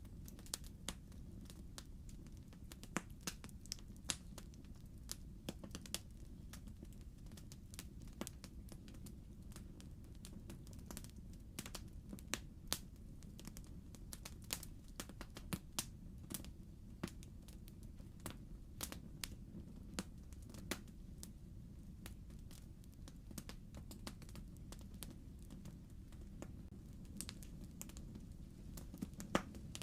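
Wood fire in a fireplace crackling: irregular sharp pops and snaps, several a second, over a low steady rumble of the burning fire.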